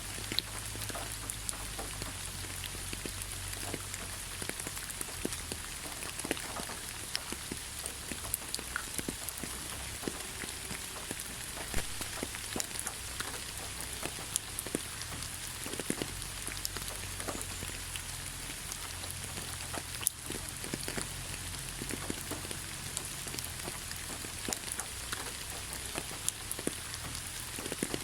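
Steady rain falling on leaves: an even hiss with many separate drops ticking sharply on the foliage, over a faint low rumble.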